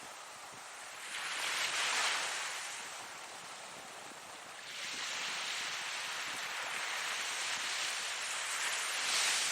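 Ocean surf: one wave swells and breaks about a second in and fades, then a longer wash builds from about halfway and is loudest near the end.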